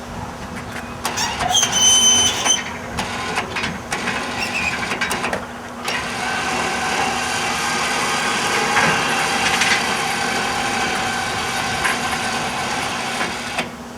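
Electric winch of a motorcycle lift running with a steady whine from about six seconds in, lowering the lift, and cutting off abruptly near the end. Before it, a few metal clicks and knocks.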